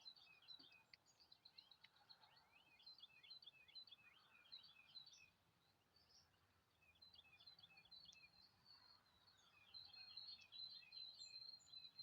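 Soft, quick chirps and short falling notes of several small birds, a busy dawn-chorus chatter, with a thin steady trill near the end.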